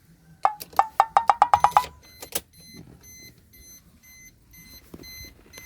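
A quick run of about ten sharp clicks, each with a short ringing tone, speeding up over the first two seconds. Then an electronic alarm-clock beeping starts, short high beeps at roughly two a second.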